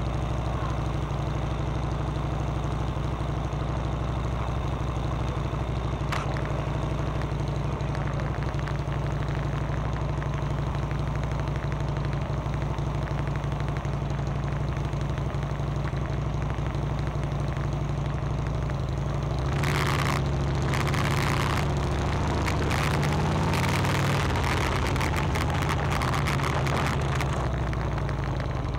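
Motorcycle engine running steadily, heard from the bike-mounted camera, with a louder rush of noise about twenty seconds in and a slight change in the engine note soon after.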